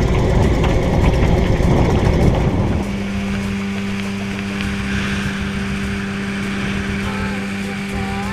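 Boat's motor running, with wind buffeting the microphone at first; about three seconds in the noise drops away, leaving a steady, even hum.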